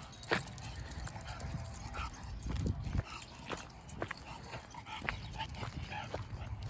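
A dog being walked on a leash: irregular steps and clicks on pavement over a low wind rumble on the microphone.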